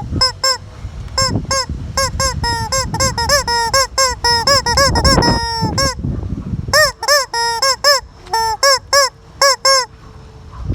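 A chicken calling loudly in a long run of short squawks, several a second, each rising and falling in pitch, with a brief pause about six seconds in.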